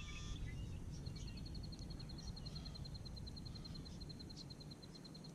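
Quiet outdoor background with a low, steady rumble. From about a second in, a fast, even trill of high-pitched ticks runs on, about ten a second.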